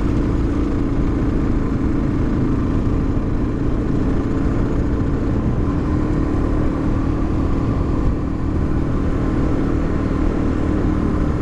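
Suzuki DR-Z400's single-cylinder four-stroke engine running steadily as the bike cruises, its note rising slightly about halfway through.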